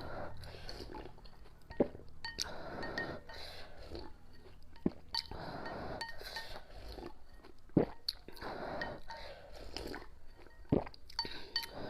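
Close-miked eating sounds of someone eating spicy noodle soup with pig intestines: repeated bouts of chewing, with a sharp click from utensils or the bowl about four times.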